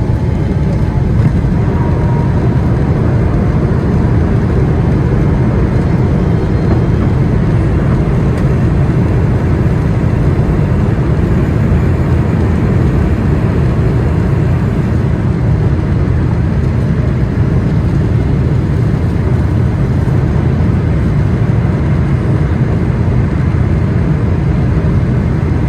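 Steady cabin noise of a Boeing 777-300ER in flight: an even, deep rumble of engine and airflow noise that holds level throughout.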